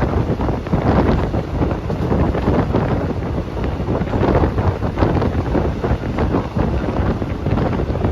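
Heavy wind noise buffeting the microphone, loud and gusting unevenly.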